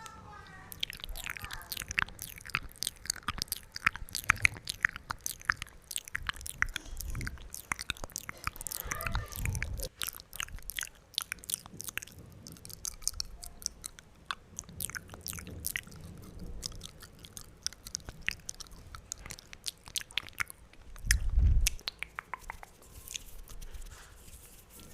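Close-miked wet mouth sounds: a dense, irregular run of quick wet clicks and smacks from tongue and lips, with a few low thumps. The loudest thump comes near the end.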